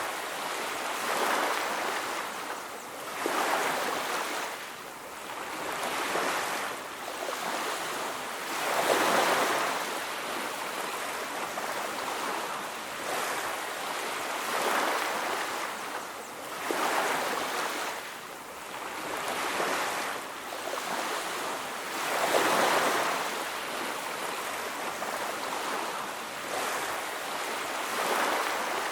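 Ocean waves breaking on a beach, a continuous wash of surf that swells and recedes every few seconds.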